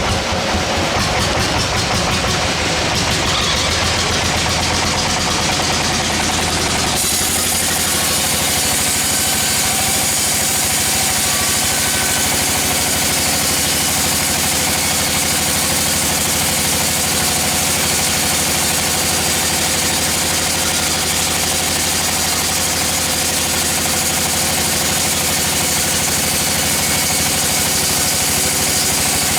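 Sawmill machine running steadily with a fast rhythmic pulsing; about seven seconds in the sound changes suddenly and a steady high hiss joins it, which fits the saw starting to cut into the log.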